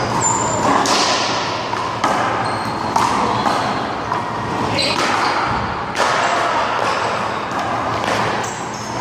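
Rubber handball smacked by hand and hitting the wall during a rally: several sharp smacks roughly a second apart, over a steady low hum.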